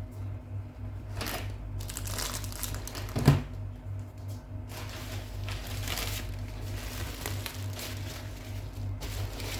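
Crinkling and rustling from something being handled, with one sharp knock about three seconds in, over quiet background music.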